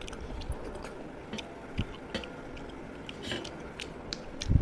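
A person chewing a mouthful of rice and fish curry eaten by hand, with scattered wet mouth clicks. There is a louder low thump near the end.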